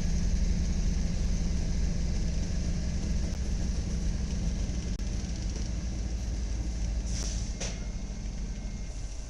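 A train's diesel engine rumbles steadily with a low drone that stops near the end. Two short air hisses come about seven seconds in, and the sound slowly fades.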